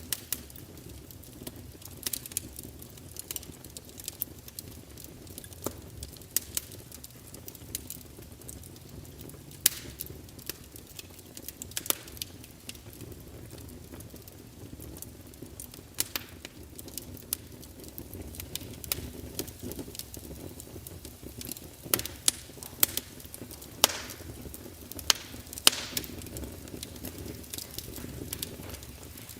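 Fire crackling, with irregular sharp pops over a low steady rumble of the flames; the pops get louder and closer together in the last third.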